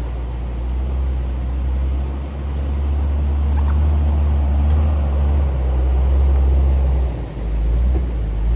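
Jeep engine and drivetrain running under load at low speed, a steady low drone with tyre and trail noise over it. The drone briefly dips twice, about two seconds in and again near the end.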